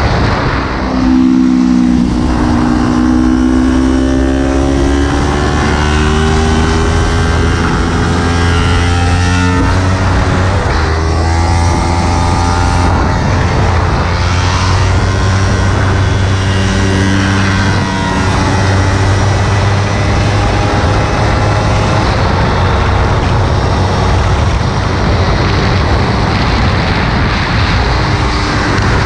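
Kawasaki Ninja 300's parallel-twin engine running hard under a rider on track, its pitch climbing through the revs and falling back several times, with a steady low rumble of wind and road noise on the bike-mounted microphone.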